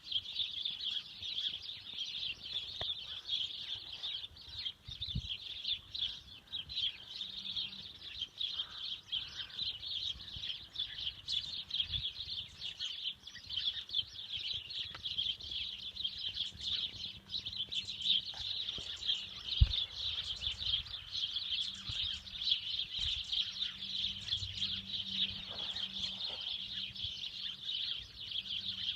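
A flock of small birds chirping and twittering continuously, many calls overlapping into a dense chatter. A few faint low knocks sound now and then, the sharpest about two-thirds of the way through.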